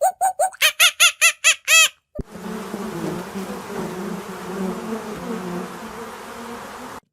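A rapid run of short, high, repeated animal calls, about five a second, breaks off after about two seconds. Then comes a steady buzzing of a flying insect, such as a bee or fly, which stops abruptly near the end.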